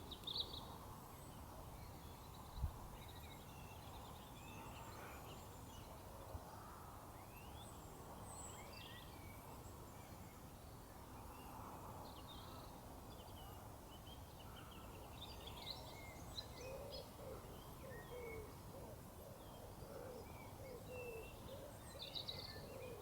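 Faint evening birdsong in the countryside: scattered chirps and short song phrases from several birds over a low wind rumble. A single soft knock comes about two and a half seconds in, and in the last several seconds a run of short, low calls repeats about once or twice a second.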